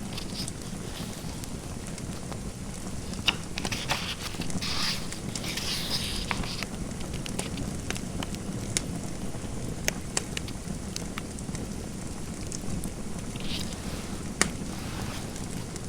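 Fireplace fire crackling over a steady low background noise, with a few sharp pops scattered through and short bursts of hiss a few seconds in and again near the end.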